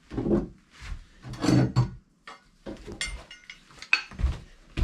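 Irregular knocks and clatter of objects being handled, with a brief ringing metallic clink about three seconds in.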